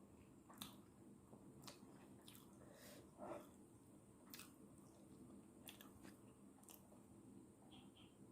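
Faint mouth sounds of someone eating instant noodles: soft, scattered clicks of chewing, roughly once a second, with one slightly louder smack about three seconds in.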